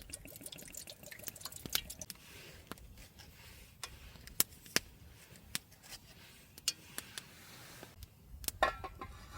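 Wood campfire crackling, with irregular sharp pops and snaps, several of them louder, about four and a half and five seconds in.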